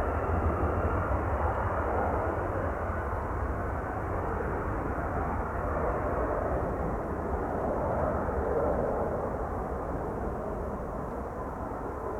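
Airplane engine noise from a departing aircraft, a steady rushing drone with a faint whine, easing a little near the end.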